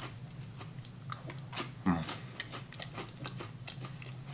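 A mouthful of crisp, flaky Gery cheese wafer cracker being chewed, with scattered small crunches and crackles, and a brief hum from the eater's voice about two seconds in.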